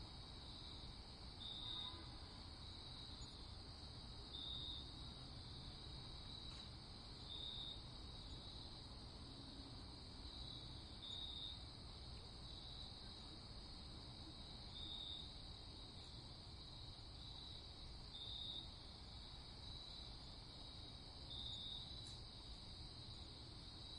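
Crickets chirping in a steady high trill, with louder chirps every second or two over a faint low background rumble.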